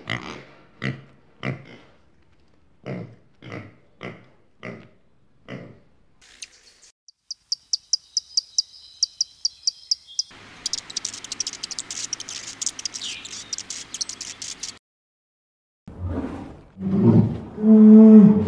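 Piglets grunting in short regular grunts, about one every half second. Then a hummingbird chirping in rapid high-pitched notes, turning into dense twittering. Near the end comes a loud, low, drawn-out call from a polar bear.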